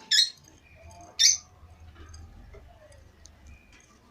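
Caged pet birds calling: two sharp, loud, high chirps about a second apart near the start, then fainter chirps, over a faint low hum.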